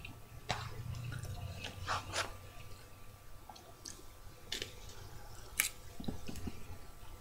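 Scattered soft, wet clicks and smacks of a mouth eating mac and cheese, with a faint steady hum underneath.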